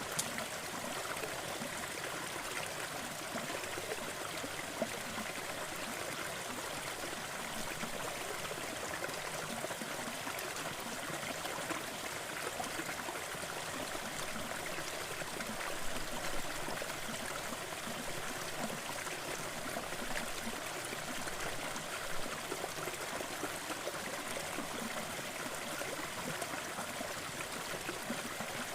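Steady hiss of a sleep-sound noise bed mixed with a fireplace crackling, with a few soft pops now and then.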